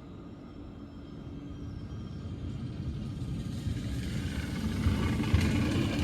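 Roslagsbanan narrow-gauge electric train approaching, its low rumble growing steadily louder, with rattling from the wheels on the track near the end.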